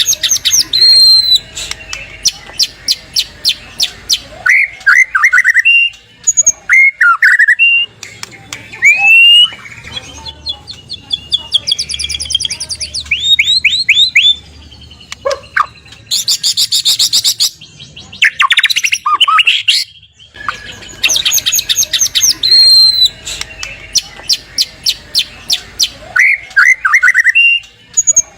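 White-rumped shama (murai batu) singing loud, varied phrases: rapid rattling strings of sharp notes, short rising whistles and fast chattering trills, separated by brief pauses.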